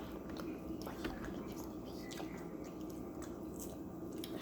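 Close-up sounds of someone chewing and biting food, with scattered small wet clicks.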